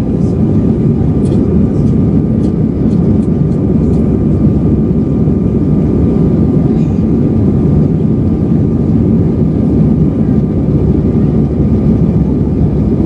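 Airbus A320 cabin noise: a steady low rumble of the jet engines and airflow, with a thin steady whine above it. A few faint light ticks come in the first few seconds.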